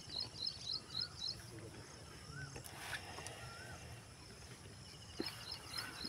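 Birds calling outdoors: a quick run of high repeated chirps in the first second and again near the end, with a few lower whistled notes in between, over a low steady background.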